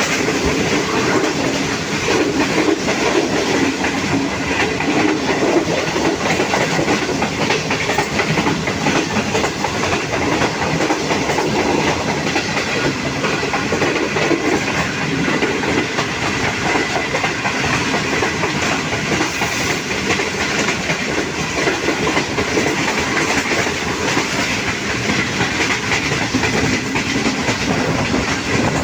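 Passenger train running at speed, its wheels clattering steadily over the rail joints, heard from aboard the coach.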